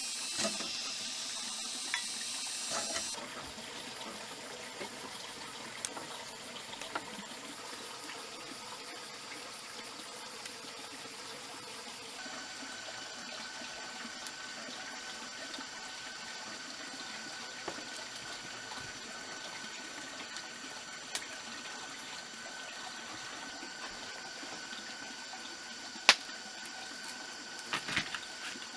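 Rainforest ambience: a steady hiss with high-pitched droning tones, louder for the first three seconds, with scattered small clicks and one sharp knock near the end.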